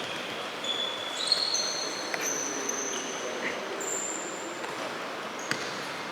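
Futsal game in a sports hall: players' shoes squeaking on the court floor in several short high squeals, with a few sharp ball kicks over a steady hall hubbub.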